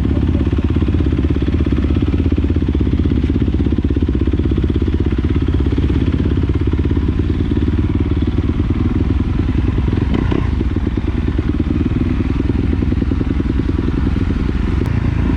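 Trail dirt bike engine running steadily, its firing pulses close and even.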